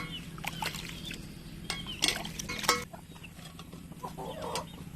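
Fowl clucking in short high calls, with a few sharp knocks or clatters about two and two and a half seconds in, over a steady low hum.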